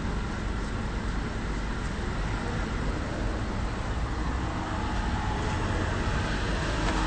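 Steady city street traffic noise: cars running and passing, with a constant low rumble.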